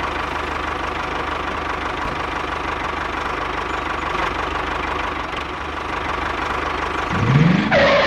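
Tractor engine running steadily, rising in pitch as it revs about seven seconds in.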